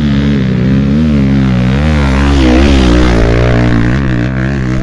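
Dirt bike engine running under varying throttle, its revs rising and falling repeatedly and loudest about two to three seconds in.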